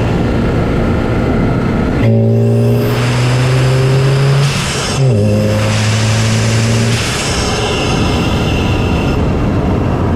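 MK7 Golf GTI's turbocharged 2.0-litre four-cylinder, heard through a CTS cold air intake from the engine bay while driving. About two seconds in, the engine comes on load with a loud drone that climbs slowly in pitch. It breaks briefly about five seconds in, comes back at a lower pitch, and drops back to a rushing noise about seven seconds in.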